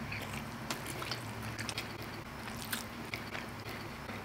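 Close-up chewing of a mouthful of macaroni and cheese, with soft wet mouth clicks and smacks scattered throughout, over a faint steady low hum.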